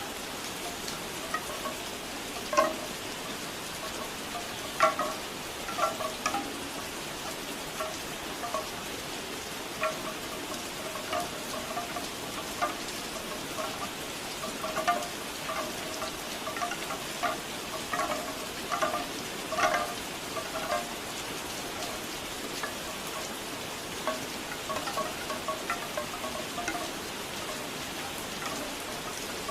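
Steady rain with bamboo wind chimes clonking in irregular clusters, hollow knocks at a few pitches that come and go with the breeze.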